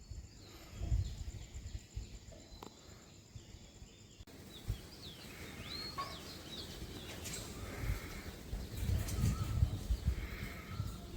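Small birds chirping in short rising and falling calls, starting about four seconds in, over gusts of wind buffeting the microphone.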